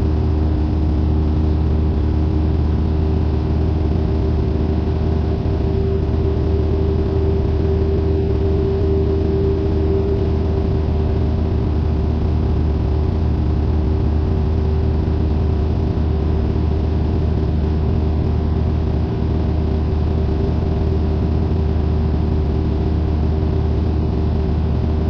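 Cessna 172N's four-cylinder Lycoming engine and propeller running steadily, a constant drone heard from inside the cockpit.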